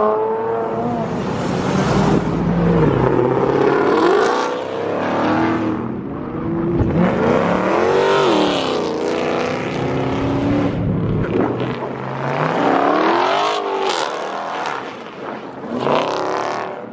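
Several Dodge Charger and Challenger Hemi V8s accelerating past one after another, each engine note climbing and falling in pitch as the car revs and goes by.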